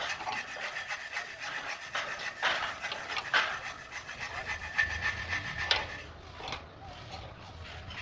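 A saw cutting in rapid rasping strokes, several a second. A faint steady high tone runs through the middle.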